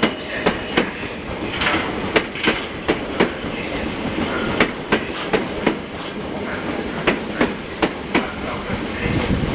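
South West Trains class 455 electric multiple unit rolling slowly past over pointwork: a steady rumble with sharp wheel clacks over rail joints and crossings about three times a second, and short high squeals from the wheels on the curving track.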